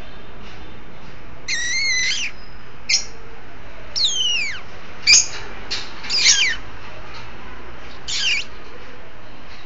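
Cockatiel calling: about six whistled calls, some short, some held, and some falling sharply in pitch, over a steady hiss.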